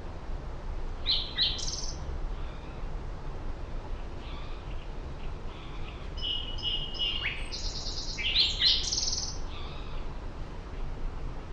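Small birds chirping: a quick burst of high chirps about a second in, then a longer run of chirps and trills from about six to nine seconds, with fainter calls in between, over a steady low background rumble.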